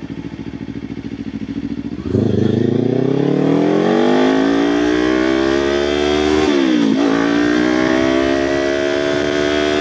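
Kawasaki Ninja 500 parallel-twin engine and exhaust running at low revs with an even pulse, then opening up about two seconds in with revs climbing steadily. Near seven seconds in the revs drop briefly for a gear change, then climb again.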